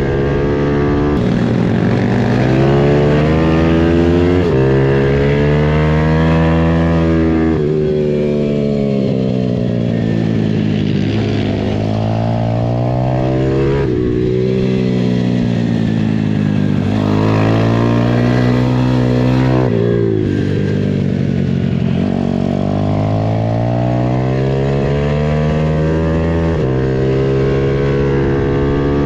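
Pitbike engine running hard as the bike is ridden on track. Its pitch climbs and falls back again and again as the throttle opens and closes through the corners, with a few sudden jumps in pitch where it shifts gear.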